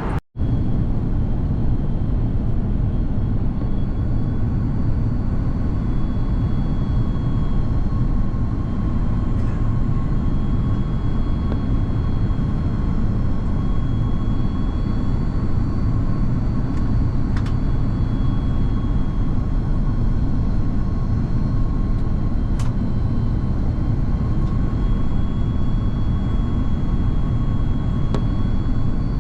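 Steady low roar inside an Airbus A330-200 airliner cabin in flight, the engine and airflow noise, with faint steady whines over it. A couple of light clicks come in the second half.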